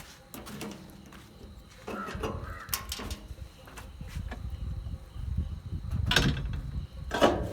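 JCB 3DX backhoe loader at work in sand and stone: its diesel engine rumbles louder from about two seconds in. Sharp scrapes and clanks come a few times, the loudest near the end.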